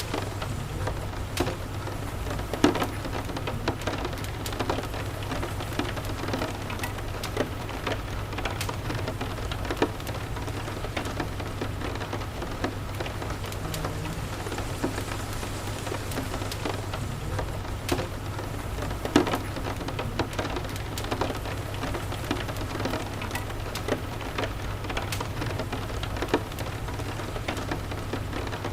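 Steady rain falling over a low, steady rumble, with scattered crackles and pops from a wood fire in a fireplace. Two of the pops are louder: one about three seconds in and one about nineteen seconds in.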